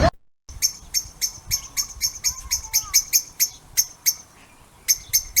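A small bird chirping: short, sharp, high chirps about three a second, pausing briefly near four seconds in, then starting again.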